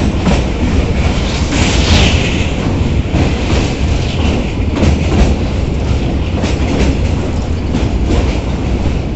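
Saryu Yamuna Express train running steadily over a bridge: a continuous loud rumble with rapid, irregular clattering of the wheels over the rail joints.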